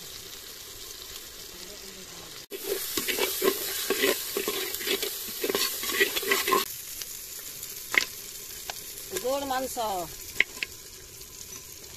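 Spice masala sizzling as it fries in hot oil in a metal pot. A steel spatula scrapes and stirs against the pot in a quick run of strokes from about two and a half seconds in until near the middle.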